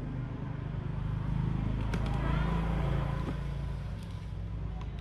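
An engine running, growing louder about a second in and easing off again toward the end, with a faint click or two.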